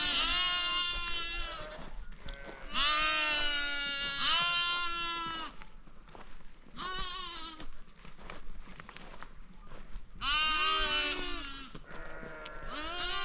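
Sheep and goats bleating: repeated wavering calls in about six bouts, some overlapping.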